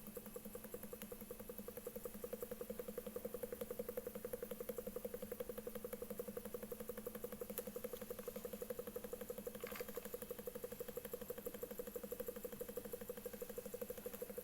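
Small Stirling engine driving a generator, running with a fast, even ticking over a steady hum.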